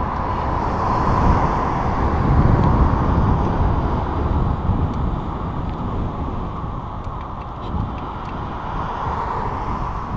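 Wind buffeting the microphone of a moving bicycle on a trail: a steady rushing roar, with faint scattered ticks and rattles from the ride.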